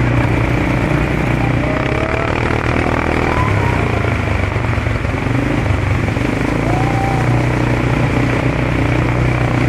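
ATV (quad bike) engine running steadily under way, a constant low hum with road and wind noise over it.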